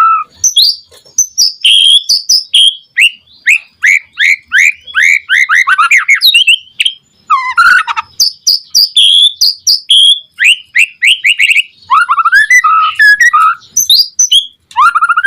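White-rumped shama (murai batu) singing at full pace: fast runs of short, falling whistled notes, broken by brief pauses between phrases.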